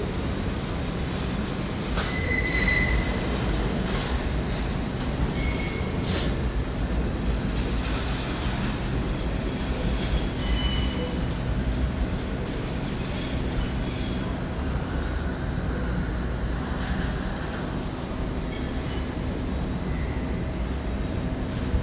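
Trains moving through a large station: a steady low hum of running trains with short, high-pitched wheel squeals every few seconds and an occasional click.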